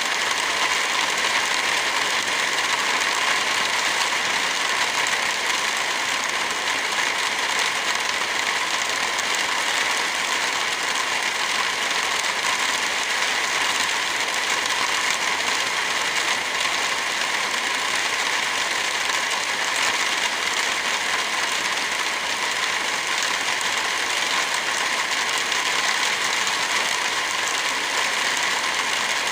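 Heavy rain falling steadily with no thunder: an even, unbroken hiss.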